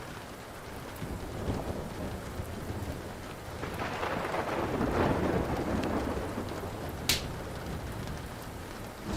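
Thunder rumbling over steady rain, swelling to a peak midway and then fading. There is a single sharp snap about seven seconds in, and faint small crackles throughout, from a wood fire.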